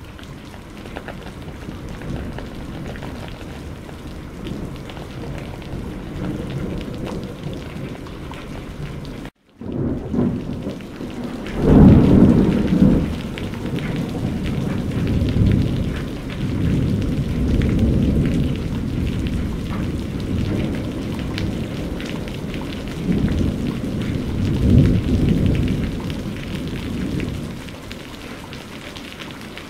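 Steady heavy rain with rolling thunder: after the rain cuts out for an instant about a third of the way in, low thunder rumbles swell in several waves, loudest just after that and again near the end, before dying away.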